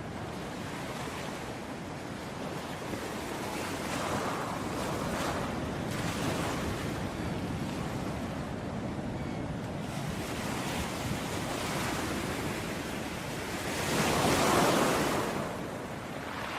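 Ocean waves washing onto a beach in a continuous rush that swells and ebbs, with one wave breaking louder about fourteen seconds in.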